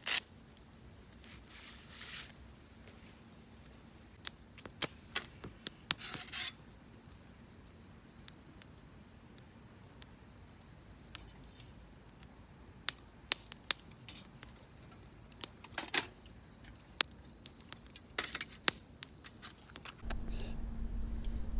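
A cricket's steady, unbroken high trill, faint, with scattered sharp clicks and knocks around it. A low hum comes in near the end.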